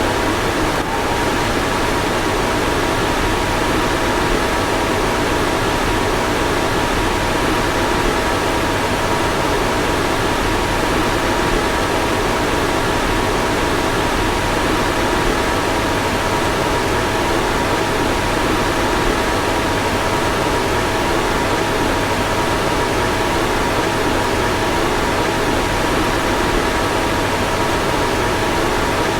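Car fan running steadily: a constant rush of air with two faint, steady hum tones.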